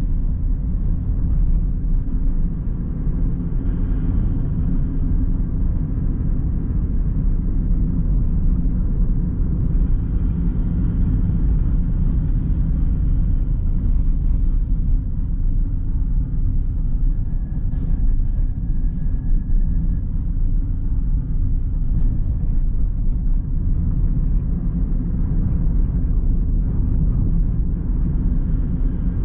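A car driving along: steady low rumble of engine and tyres on the road surface.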